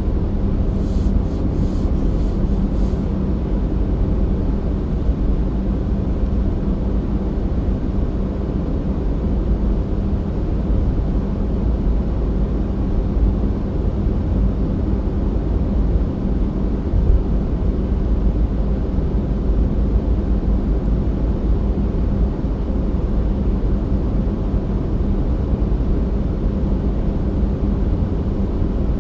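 A car driving, with a steady low drone of engine and road noise.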